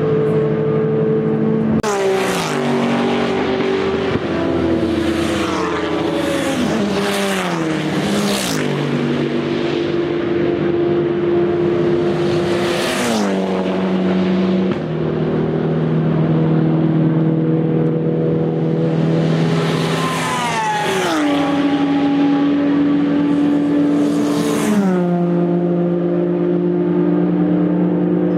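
Race cars with open exhausts passing one after another at high revs, each engine note dropping in pitch as the car goes by. A close string of passes comes a few seconds in, with single cars later on. Engine drone from other cars carries on between the passes.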